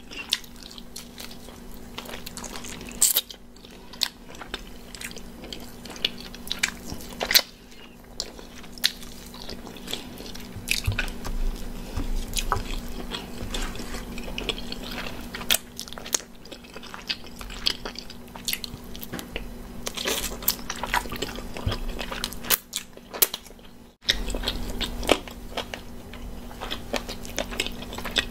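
Close-miked eating of oven-fried chicken wings: irregular bites, crunches and wet chewing and lip-smacking clicks. A faint steady low hum runs underneath.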